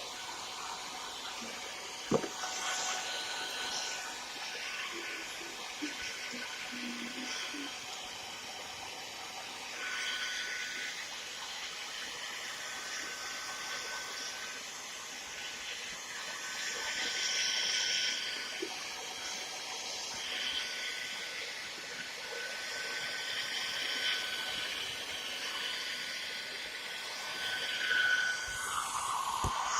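Hair dryer blowing steadily with a faint high whine, its rush swelling and easing several times, heating a motorcycle headlamp to soften the sealant holding the lens.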